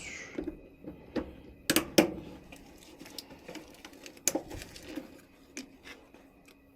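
Irregular clicks and knocks of a furnace's plastic condensate trap and its hoses being handled and worked loose, the loudest two about two seconds in and another past four seconds, over a faint steady hum.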